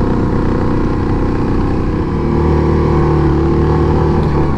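A Yamaha Grizzly 700 ATV's single-cylinder engine running steadily while riding along the trail. About halfway through, it settles into a steadier, slightly louder note.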